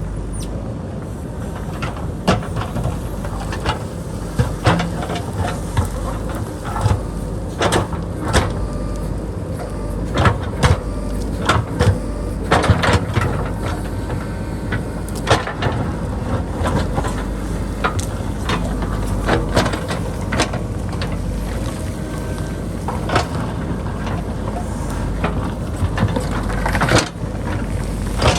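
JCB backhoe loader's diesel engine running steadily while it digs into a rocky hillside, with frequent irregular knocks and clatter of rock and soil against the steel bucket.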